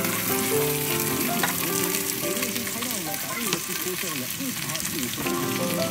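Food sizzling and crackling as it fries in a pan, a steady dense hiss with small pops, with background music playing under it.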